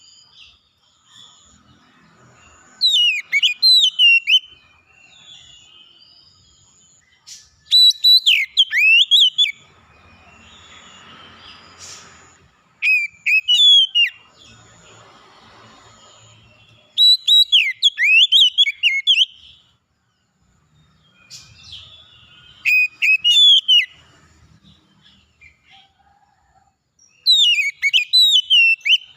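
A songbird singing loud, repeated phrases of rapid, sharply rising and falling whistled notes, six phrases each lasting about two seconds with short pauses between.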